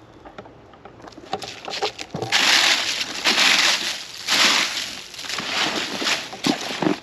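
Rustling and crinkling as the contents of a found suitcase are handled and pushed through: a few light clicks at first, then loud rustling surges from about two seconds in, broken by sharp ticks.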